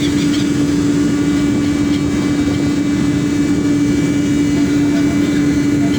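Engine running steadily: a constant low hum over an even rushing noise.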